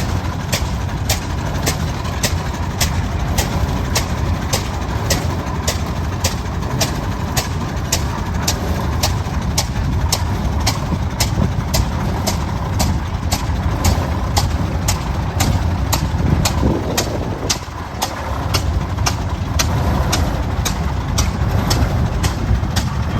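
Antique tractor engine running slowly over a deep rumble, its firing beat a sharp, even crack just under two times a second.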